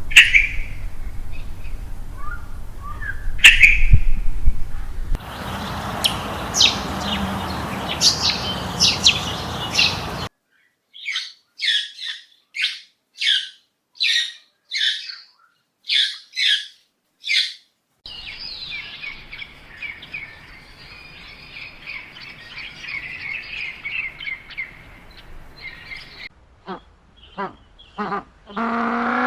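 Birds chirping in a run of separate short clips. Near the start the chirps sit over a steady background noise. In the middle, single short chirps come about twice a second with silence between them. Then a continuous twittering follows, and near the end a few quick chirps.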